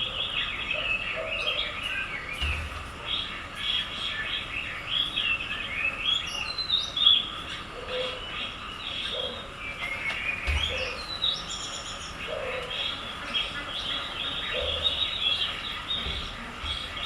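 Small birds chirping and twittering without a break, a busy chorus of quick rising and falling notes, with a few short lower calls now and then.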